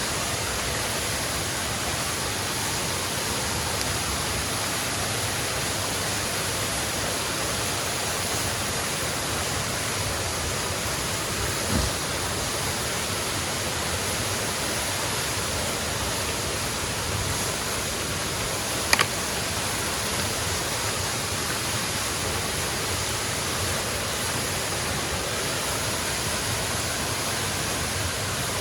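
Steady rushing of a waterfall, an even noise, with a soft knock about twelve seconds in and a sharp click around nineteen seconds.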